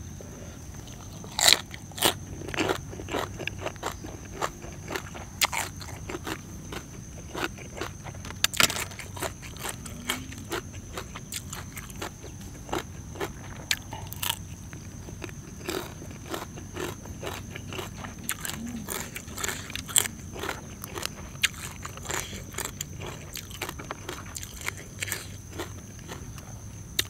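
A person eating crunchy food close to the microphone: many irregular crunching bites and chewing.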